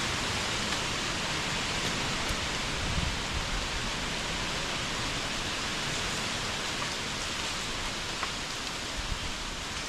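Heavy rain falling steadily, a dense even hiss with a few scattered drop ticks.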